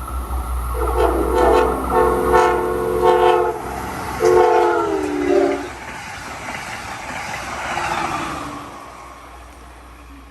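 Amtrak Keystone passenger train passing at speed with its horn sounding. The last horn blast drops in pitch as the train goes by, then the rush of the passing train swells and fades away.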